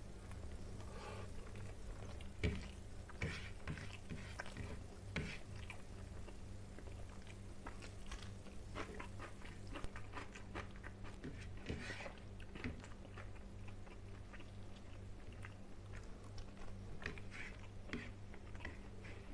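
A person chewing and eating rice with fish curry by hand, with many short, irregular wet clicks and smacks close to the microphone. A low steady hum runs underneath.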